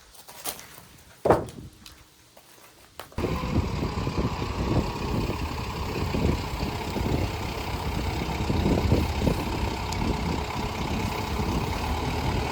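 A sharp knock about a second in, then from about three seconds in a portable sawmill's engine running steadily.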